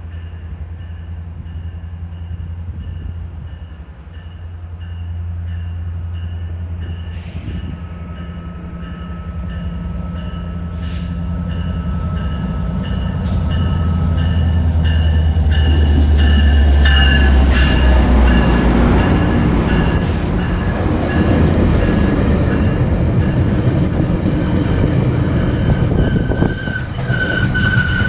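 GO Transit MP40 diesel locomotive approaching with its engine droning low and growing louder, while a bell rings repeatedly. As the bilevel coaches roll past, the wheels and brakes squeal high and shrill, the train slowing to stop at the platform.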